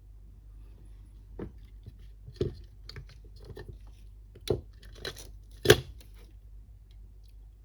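Several separate knocks and light clatters of small hard objects being handled and set down on a workbench, the loudest about two-thirds of the way through, over a low steady hum.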